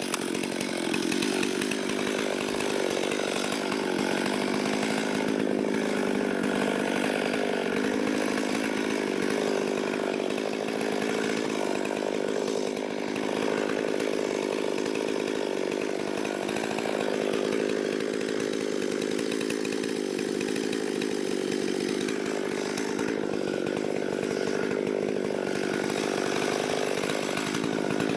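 Ported Stihl 440/460 hybrid chainsaw, a two-stroke with a 20-inch bar and full-comp chain, running at full throttle under load as it cuts through wood. The pitch holds steady with small dips.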